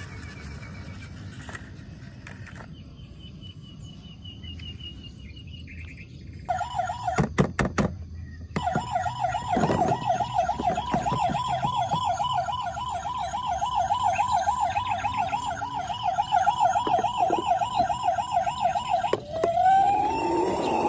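Electronic toy siren warbling rapidly from about six seconds in, with a few sharp clacks just after it starts; near the end it switches to a rising wail.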